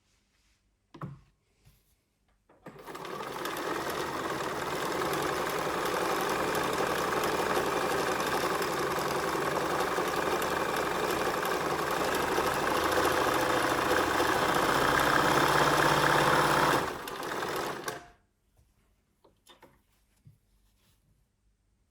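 Bernina 1230 sewing machine running for about fourteen seconds, growing gradually louder, then dropping off and running down to a stop.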